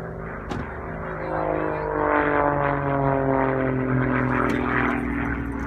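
Propeller airplane flying past, its engine drone sliding gradually lower in pitch as it goes by, loudest about two seconds in.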